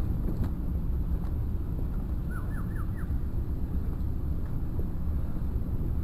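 Wind buffeting the microphone, a steady low rumble. About two and a half seconds in, a bird calls four quick rising notes.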